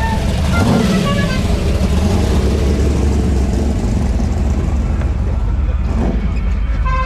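A vehicle engine running with a steady low rumble, with faint music playing over it.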